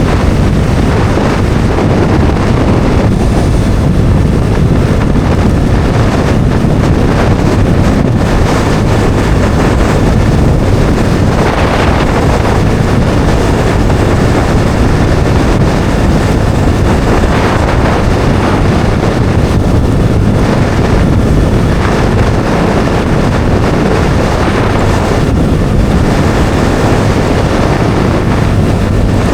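Bajaj Dominar 400's single-cylinder engine running steadily at road speed, largely buried under heavy wind noise on the microphone.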